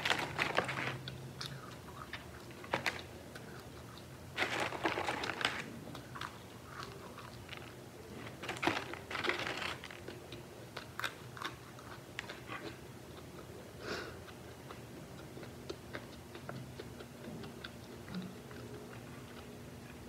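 Close-miked chewing and biting of French fries, with louder crunching bouts a few seconds apart: at the start, around the middle and once more later, between quieter mouth sounds.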